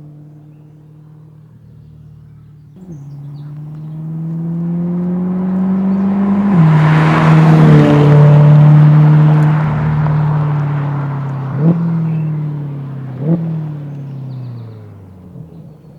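Chevrolet Corvette C8's 6.2-litre V8 through an MBRP 3-inch stainless active cat-back exhaust, accelerating with its pitch rising and a gear change about six and a half seconds in. It is loudest through the middle, then falls in pitch and fades as it pulls away. Two short, sharp blips come near the end.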